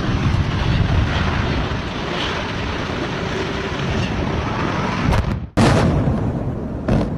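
Loud rumble and roar of a building collapsing in a demolition, with wind buffeting the microphone. The sound cuts off abruptly about five and a half seconds in and starts again at full loudness, and once more near the end.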